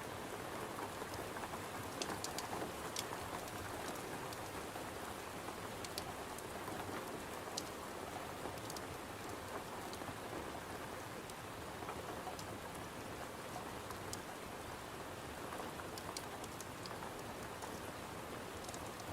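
Steady rain falling on a window, a dense even patter, with scattered sharp ticks that cluster briefly about two seconds in and again near the end.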